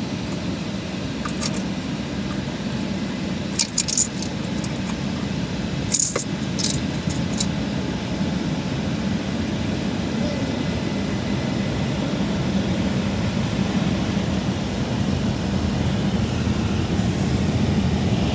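Automatic car wash equipment running over the car, heard from inside the cabin as a steady low rumble that grows slowly louder, with a few sharp taps about four and six seconds in.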